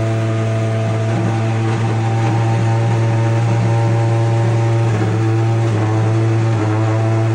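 Hyundai i30N BTCC touring car's turbocharged four-cylinder engine idling steadily in the garage, a throaty note with no revving.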